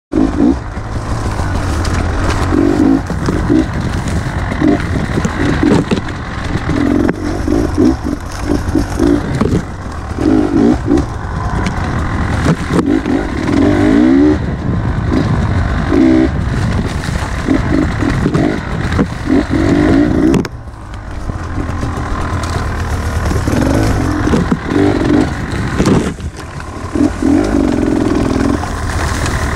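Beta 300 two-stroke enduro motorcycle engine revving hard in repeated short bursts of throttle, rising and falling, as the bike rides a rough trail. It eases off briefly about two-thirds of the way through. The engine is heard close up from the rider's helmet camera.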